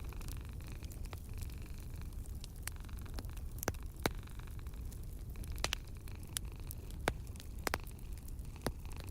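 Wood fire crackling in a fireplace: scattered sharp pops and snaps, a few in quick pairs, over a steady low rumble and soft hiss.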